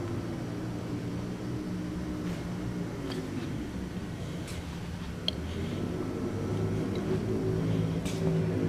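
A 1997 Honda CBR900RR's inline-four engine idling steadily, getting louder over the last few seconds, with a few light clicks.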